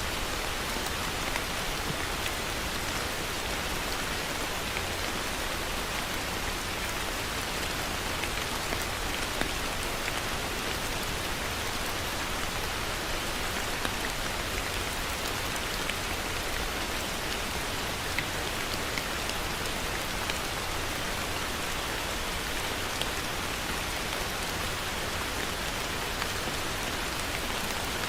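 Heavy rain falling steadily on surfaces, an even hiss with scattered individual drop ticks.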